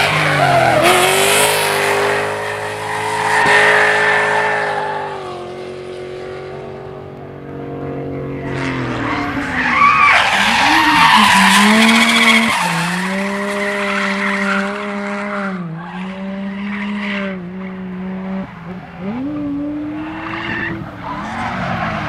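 Competition car engine revving up and down under hard throttle, with tyres squealing and skidding. The loudest squeal comes about ten seconds in, then the engine holds a steady high note with brief dips before rising again near the end.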